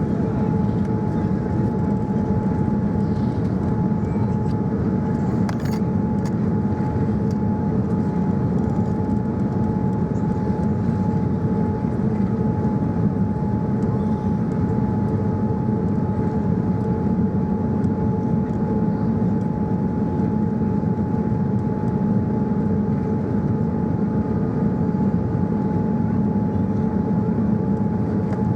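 Steady cabin noise inside a Boeing 787-9 airliner: a low, even hum of engines and airflow with a constant whine.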